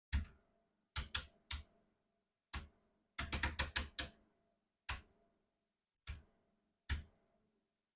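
Sharp clicks of pushbuttons being pressed on a Sencore VG91 pattern generator's front panel: single presses spaced about a second apart, with a quick run of about eight clicks near the middle.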